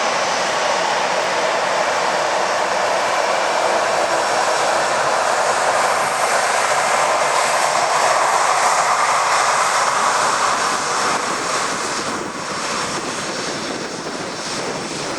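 Jet airliner passing, its engine roar swelling to a peak about eight or nine seconds in and then fading away.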